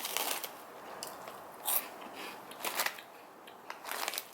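Close-up crunching as a hard, crouton-like buttered sugar toast snack is chewed, a few irregular crunches spread across the moment.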